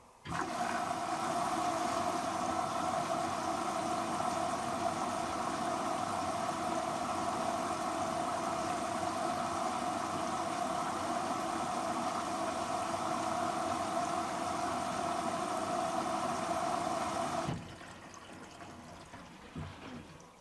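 Hoover washer dryer's water inlet valve filling the drum: a steady rush of water that switches on sharply and cuts off abruptly near the end.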